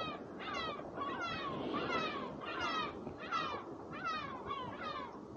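A bird calling over and over: a steady series of short, falling calls, roughly one every half-second.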